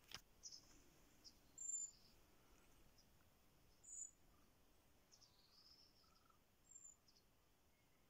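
Faint, short, high chirps of small birds feeding in a grapevine, a handful of scattered calls, the clearest about two seconds and four seconds in.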